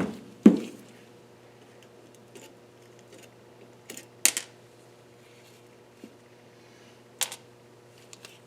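Metal tools clicking and knocking on a KA24DE cylinder head during work on the valve springs and keepers. There are a few separate sharp clinks, the loudest near the start, about half a second in, about four seconds in and about seven seconds in, over a steady low hum.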